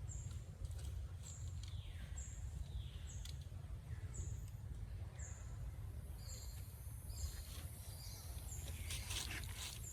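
Forest birds calling. A short high note repeats roughly once a second, a few falling whistles come in the first half, and a second high note joins the repeats in the second half, all over a steady low rumble.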